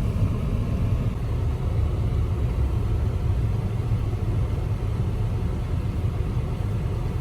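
Steady low rumble of a car driving slowly: engine and road noise.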